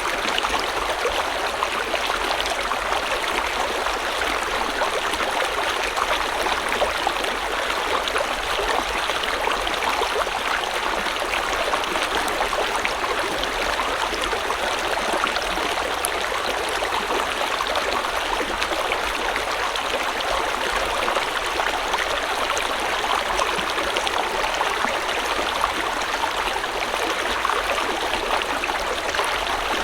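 Stream water flowing and babbling over rocks in a steady, unbroken rush.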